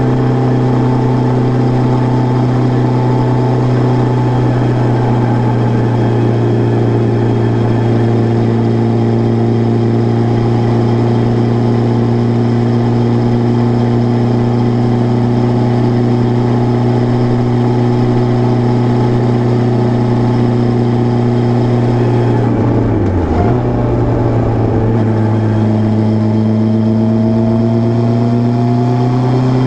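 Suzuki Bandit 600's air/oil-cooled inline-four engine running at a steady level, its pitch holding nearly constant, dipping briefly about three-quarters of the way through, then rising slowly near the end.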